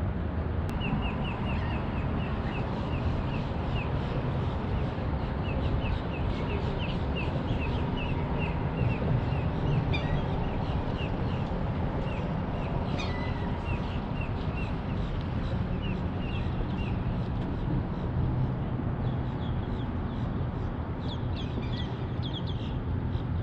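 A bird calling in runs of short, high chirps, about four a second, over a steady rushing outdoor background; a second run of chirps comes near the end.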